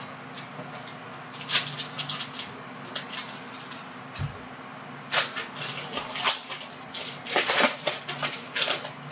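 Trading cards being handled: quick runs of clicks and slides as card stock is flipped and shuffled, in two busy clusters with a lull around the middle.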